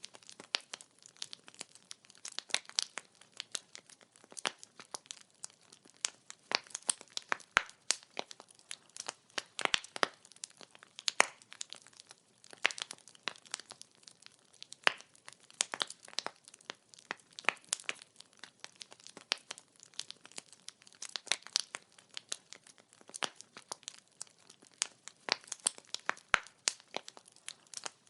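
Burning firewood crackling: many irregular sharp pops and snaps, several a second, over a faint hiss of the flames.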